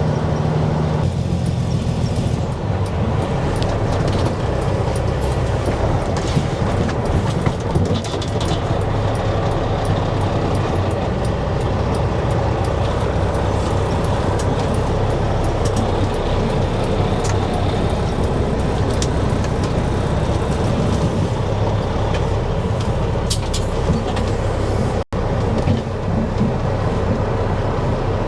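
Dump truck's diesel engine and road noise from inside the cab while driving, a steady loud hum whose pitch steps down about a second in, with faint rattles.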